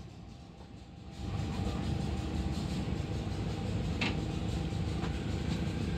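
Train rolling slowly along the track: a steady low rumble that sets in about a second in, with a single short click around four seconds.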